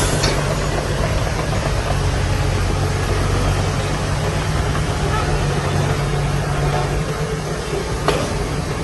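Heavy diesel engine of earthmoving machinery running steadily at an even low pitch, with a single sharp click about eight seconds in.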